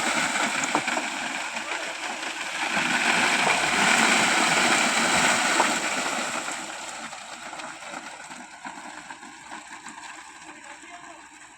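Wet plum concrete pouring and splashing, a steady rushing noise that is loudest for the first six seconds and then gradually fades away.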